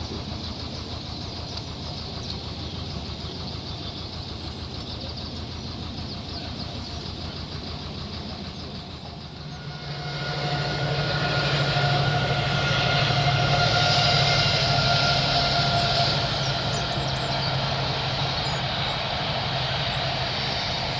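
Narrowboat diesel engine running with a steady, fast beat. About halfway through, a louder rumble with a steady hum joins in and swells, then eases off slightly.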